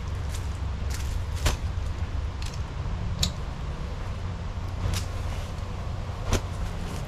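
Scattered sharp clicks and snaps, about six over several seconds and irregularly spaced, over a steady low rumble.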